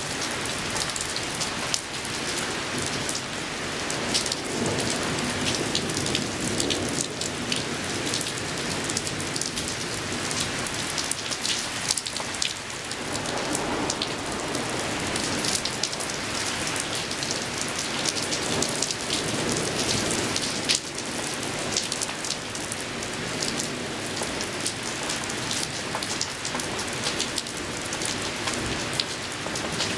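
Heavy rain falling steadily, with many sharp drops ticking close by.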